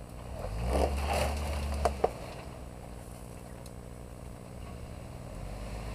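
Hummer H3's engine through its Magnaflow exhaust revving up under load as the tyres work through mud. Two sharp knocks come about two seconds in, then the engine drops back to a steady low run.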